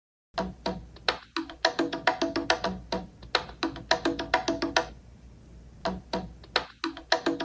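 An iPhone ringtone begins after a brief silence: a quick run of short, knocking percussive notes that form a looping melodic phrase. After a short lull the phrase starts again about five and a half seconds in.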